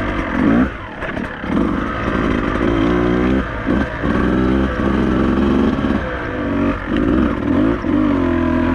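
Beta 200RR two-stroke enduro motorcycle engine being ridden at low speed, the throttle opening and closing about once a second so the engine revs up and drops back over and over.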